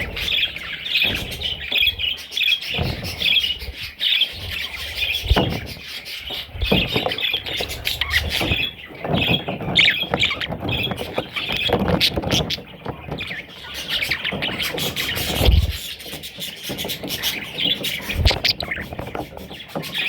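Baby budgies (budgerigar chicks) chirping and squawking in quick, repeated high calls, with occasional low knocks and bumps.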